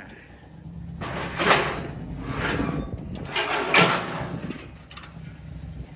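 Pontiac Le Mans's swapped 5.3 LS V8 running at idle, a steady low hum, with three short noisy bursts over it.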